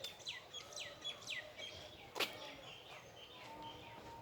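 Birds chirping: a quick run of notes that each sweep down in pitch, then lighter chirps. A single sharp click a little past halfway is the loudest sound.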